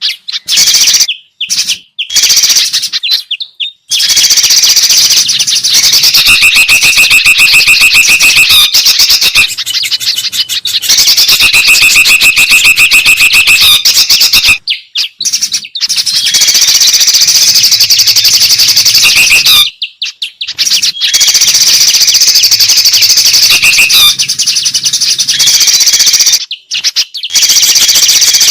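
Bird-lure recording of noisy songbird chatter: a dense mix of loud chirps and calls. Twice in the middle a rapid trill is held for a few seconds, and the sound breaks off briefly several times.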